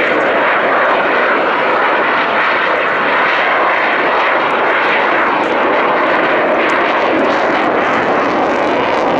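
Aircraft engine of an airplane flying an aerobatic display: a loud, steady rushing noise with no clear pitch.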